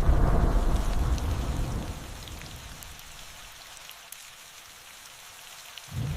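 Rain and thunder: a loud thunder rumble dies away over the first two seconds under steady rainfall, then the rain falls alone as an even hiss with faint scattered drop ticks. A new roll of thunder starts abruptly just before the end.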